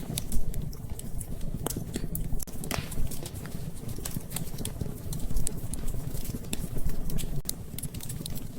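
Wood fire crackling in a fireplace: frequent, irregular sharp pops and snaps over a low steady rumble, with rain pattering behind it.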